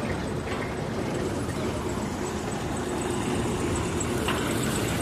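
Heavy diesel road-construction machinery running steadily, with a brief click about four seconds in.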